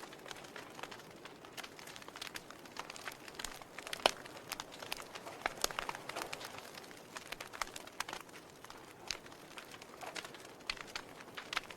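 Wood fire in a fireplace, logs crackling and popping at irregular intervals over a soft hiss, with one louder pop about four seconds in.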